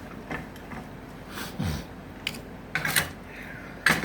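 Hand tools working acacia wood: a handful of sharp, irregular knocks and scrapes, the loudest pair near the end.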